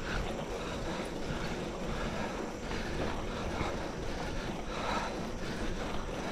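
Wind rushing over the microphone of a mountain bike riding along a forest road, with a steady low rumble from the ride.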